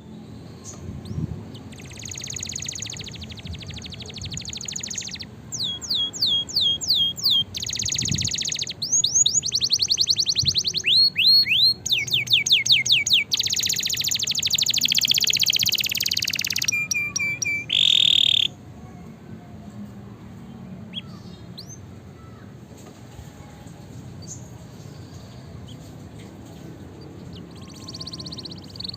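Domestic canary singing a vigorous song: rapid trills and runs of quick falling whistled notes, phrase after phrase, ending on a short held note about eighteen seconds in, after which only a few faint chirps remain.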